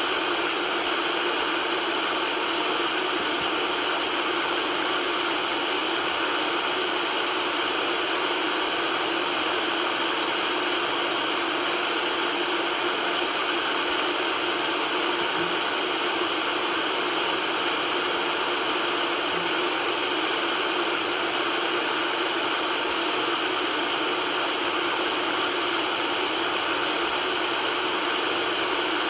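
Steady, unchanging white-noise hiss with little low rumble, of the kind played to soothe a baby to sleep.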